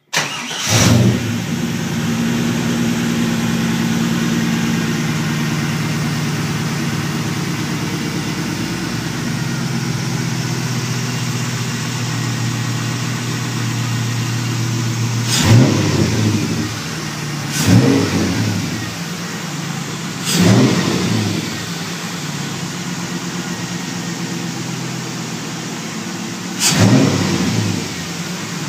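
GM LS1 5.7-litre V8 in a 1963 Corvette starting up on one of its first runs after an engine swap: it catches and flares briefly, settles into a steady idle, then is revved four times, each rev rising and falling back to idle.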